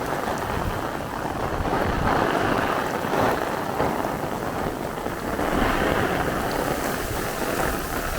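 Very heavy downpour with gusting wind buffeting the microphone: a steady rush of rain that swells twice as gusts come through.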